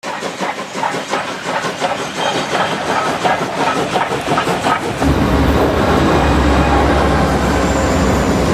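Train rolling along the rails, its wheels clattering over the rail joints in a quick, even rhythm. About five seconds in, a louder deep rumble takes over.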